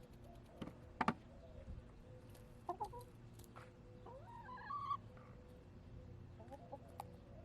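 Backyard hens clucking softly, with a few short calls and a longer, wavering call near the middle. Two sharp taps about a second in are the loudest sounds.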